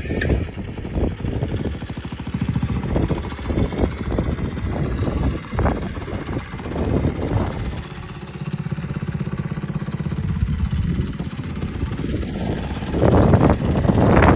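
Small 50cc four-stroke mini chopper engine running, at first unevenly, settling into a steady idle for a few seconds in the middle, then revving louder near the end.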